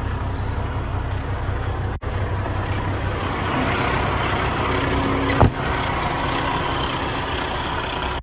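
Kenworth T880 dump truck's diesel engine idling steadily with a low rumble, with a single sharp knock about five and a half seconds in.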